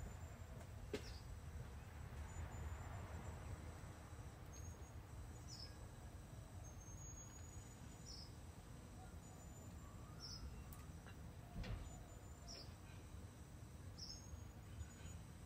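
A bird calling faintly, repeating short, high, falling chirps about every two seconds, over a low rumble of wind or handling noise. A soft knock comes about a second in and a louder thump past the middle.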